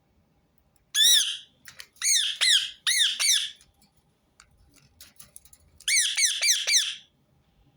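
Rose-ringed parakeet giving shrill, harsh screeching calls, each rising and falling in pitch: one call, then a run of four, then after a pause another run of four.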